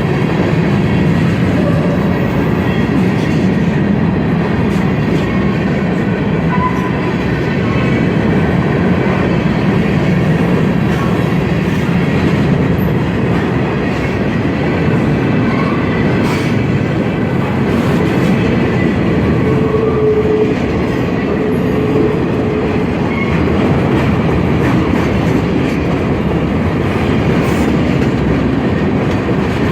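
Ferromex freight train rolling past, its wagons' wheels clattering steadily over the rail joints, with a few brief faint wheel squeals.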